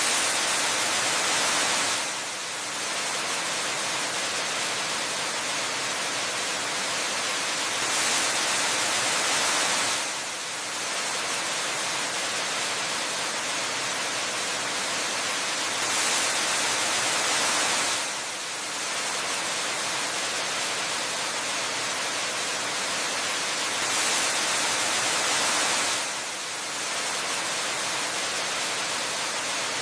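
Waterfall ambience: a steady, bright, hissing rush of falling water. In a regular cycle it swells brighter for about two seconds every eight seconds, then dips briefly.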